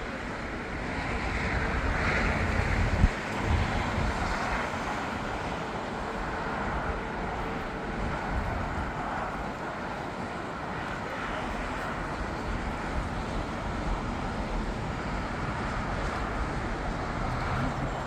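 Jet aircraft noise: a steady broad rush that swells over the first two seconds and then eases off. Wind buffets the microphone, and there is a single sharp knock about three seconds in.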